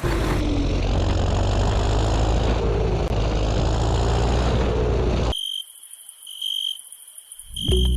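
An engine running steadily with a strong low hum, cutting off abruptly about five seconds in, followed by three short high-pitched beeps about a second apart.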